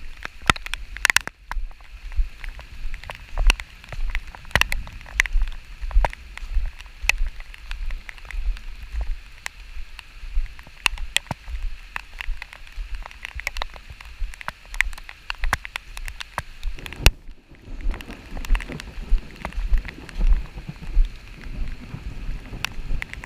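Rain falling, with drops striking close by in irregular sharp taps over a steady hiss and a low, uneven rumble.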